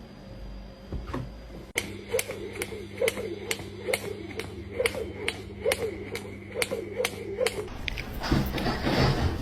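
A steady run of sharp taps or knocks, about two a second, over a low hum, then a burst of louder, scuffling noise near the end.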